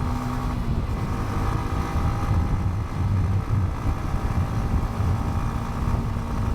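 Motorcycle engine running at a steady cruising speed while riding, under a heavy low rumble.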